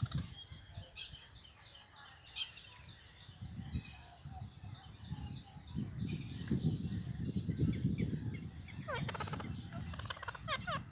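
Rose-ringed parakeets calling and chattering, with shrill chirps throughout and a run of quick falling notes near the end. From about four seconds in, a loud, fast-pulsing low rumble sits under the calls.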